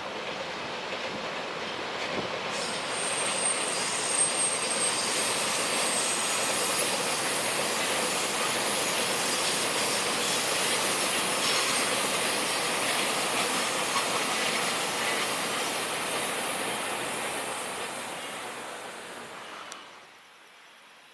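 A train running past on the rails, the steady noise of wheels and cars going by, with a thin high wheel squeal for a few seconds near the start. The noise eases off and then cuts off suddenly near the end.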